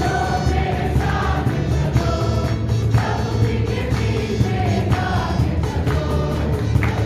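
Choral music: several voices singing together over a steady bass.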